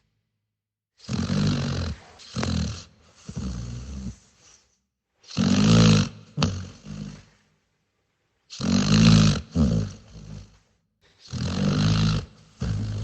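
A dog snoring: a run of about five snores, one every two to three seconds, each a noisy breath over a low rattling tone, with complete silence between them.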